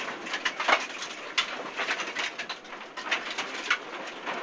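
Rally car cabin noise through a tight hairpin: engine and tyre noise with stones clattering irregularly against the underbody on a gravel forest stage.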